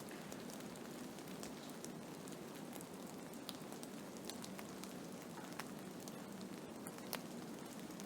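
Blizzard ambience: a steady even hiss with many scattered small ticks and crackles.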